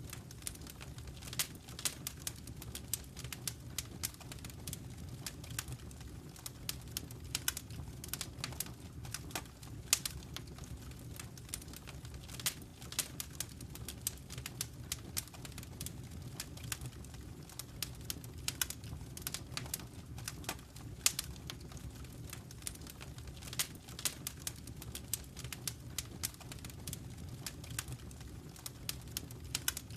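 Wood fire in a fireplace crackling, with frequent irregular sharp pops and snaps over a low, steady rumble.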